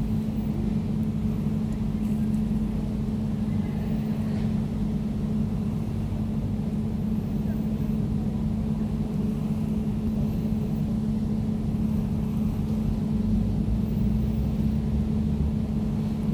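Air conditioner running steadily: a low, even hum with a steady drone over a rumble, with no change in pitch or level.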